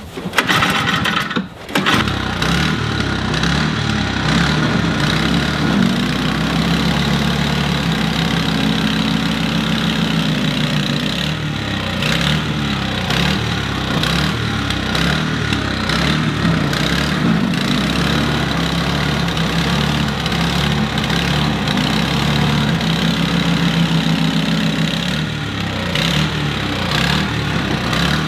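Toro snow blower engine starting after a brief crank about two seconds in, then running on with its speed rising and falling. The uneven running is the engine hunting while still cold, just after its plugged carburetor main jet was cleaned and the worn bowl-nut seal rebuilt with sealant.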